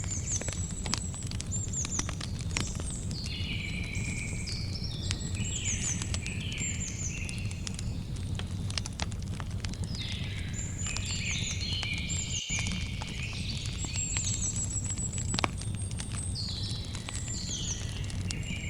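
Campfire crackling with frequent sharp pops, one louder pop near the end, over a steady low rumble, while birds call throughout with short, quickly repeated chirps that drop in pitch.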